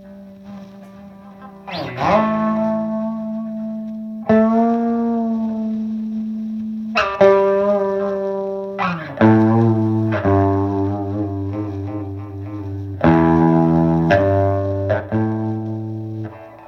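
Electric guitar played through an Engl Ironball tube amp on its clean channel with the boost on: a slow series of chords, each struck and left to ring out and fade, with a pitch slide up into one chord about two seconds in and a falling slide about nine seconds in.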